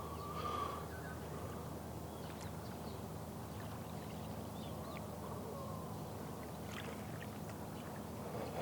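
Seashore ambience: a steady low hum under a wash of water-like noise, with a short bird call in the first second and scattered faint chirps.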